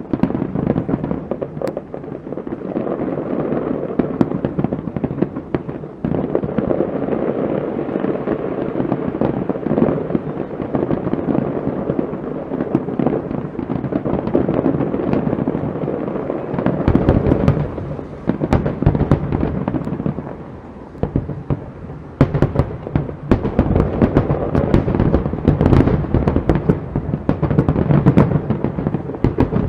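Fireworks display: rapid, overlapping booms of aerial shells bursting, with a dense crackling from about halfway through.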